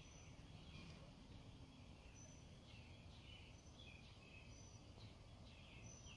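Faint birdsong: short chirps repeating every second or so, over a low steady outdoor background rumble.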